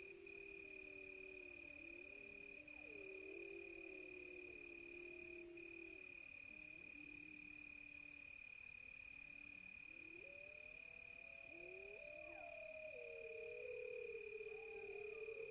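Several wolves howling together far off, in long, wavering, overlapping howls that grow louder near the end. Under them runs a steady high cricket trill with regular chirping from other insects.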